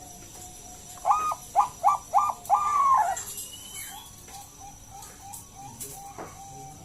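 Zebra dove (Bangkok-type perkutut) cooing one phrase about a second in: a note, three short clipped notes, then a longer falling note. Fainter short soft notes repeat after it.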